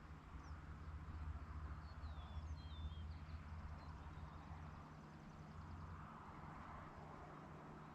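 Faint rural outdoor ambience: a steady low rumble that eases about six seconds in, with a few short, high bird chirps in the first three seconds.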